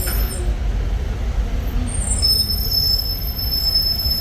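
Steady low rumble of a moving vehicle, with a thin high whine joining about two seconds in.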